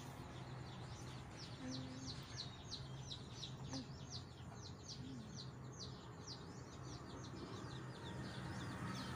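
Small birds chirping in a rapid run of short, high, downward-sweeping chirps, about four a second, which fades out about seven seconds in, over a faint steady low hum.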